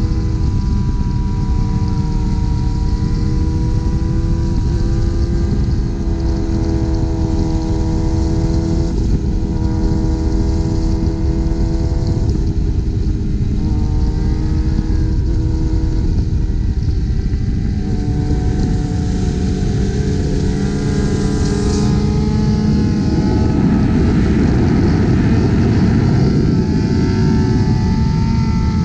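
Motorcycle engines running at highway speed, with heavy wind and road rumble; the sound swells a little about three quarters of the way through.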